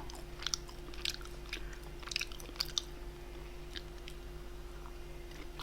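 A person chewing food close to the microphone: soft, scattered wet mouth clicks and smacks, over a faint steady hum.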